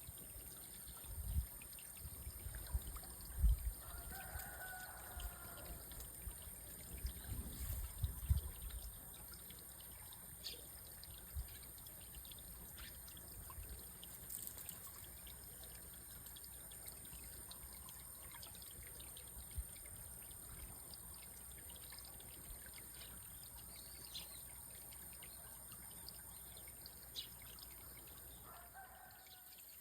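Faint flowing water trickling steadily, with scattered low thumps during the first nine seconds. A bird calls briefly about four seconds in and again near the end.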